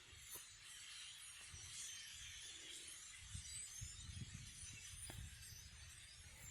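Near silence: faint outdoor background with a few soft low knocks.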